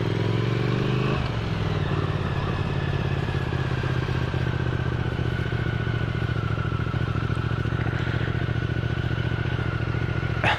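Motorcycle engine running, its revs dropping about a second in and then holding a steady idle.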